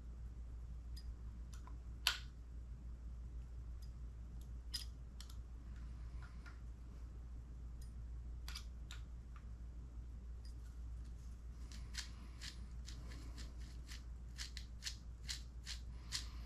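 Faint light clicks and ticks from an RC10T transmission being spun and turned by hand, with a sharper click about two seconds in and a quicker run of clicks near the end, over a steady low hum.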